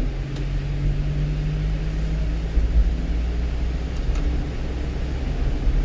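Steady engine and road noise heard inside the cab of a one-ton truck on the move, an even low hum with a constant drone.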